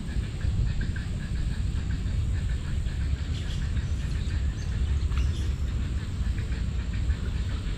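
Small birds chirping over and over, short high calls, over a steady low rumble.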